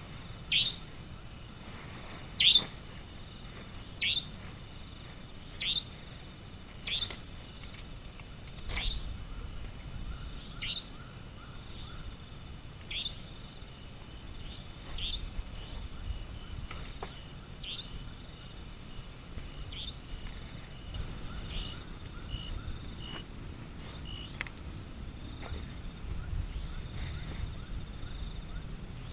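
A bird calling over and over: a short, sharp note falling in pitch, repeated about every two seconds. The calls are loudest in the first few seconds and fainter after. A steady high-pitched insect drone carries on behind them.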